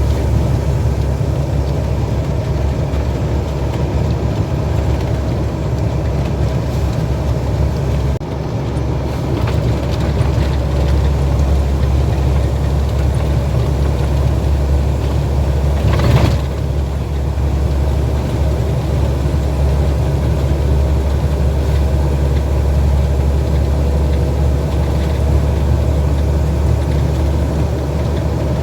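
Heavy truck engine running steadily with a low rumble. A single sharp knock sounds about sixteen seconds in.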